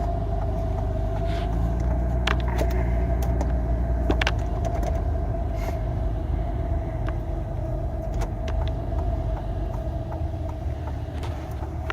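Car driving at a crawl, heard from inside the cabin: steady low engine and road rumble with a faint steady hum and a few light clicks and knocks.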